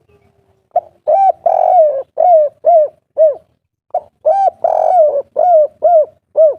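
Spotted dove (tekukur/derkuku) cooing its 'kuk 3' song, twice. Each phrase is a short note, then a long coo, then a run of shorter, arched coos.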